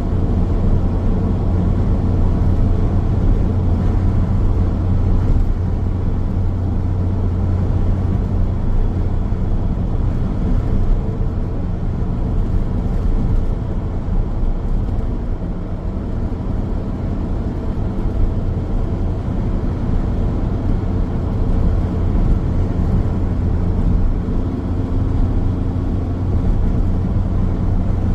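Car driving along a highway: a steady, loud low rumble of tyres on the road surface and the running engine, with no sudden events.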